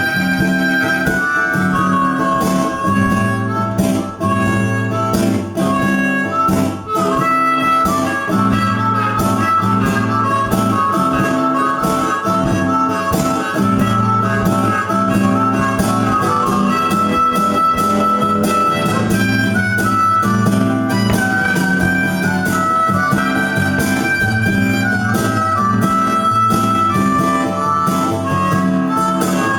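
Harmonica playing a wavering melody over guitar accompaniment: an instrumental break in a bluesy song with no singing.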